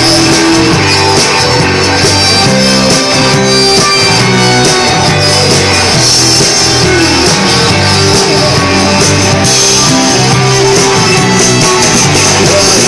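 Rock band playing a loud instrumental break with no singing: electric guitar, bass and drum kit.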